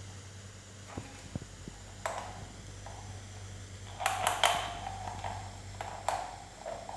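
Light knocks and clinks of a washing machine's drain filter being handled, a few at a time, the loudest cluster about four seconds in, over a low steady hum.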